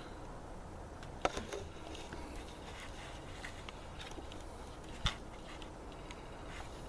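Quiet room tone with a faint steady low hum, broken by two short sharp clicks, one about a second in and one about five seconds in.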